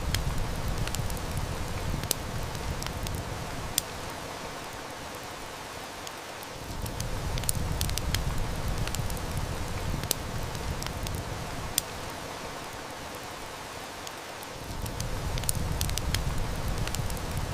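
Heavy rain falling steadily, with sharp snaps and crackles of a wood fire scattered through it. Under them, a deep low rumble fades about four seconds in, swells back a few seconds later, and dips again briefly near the end.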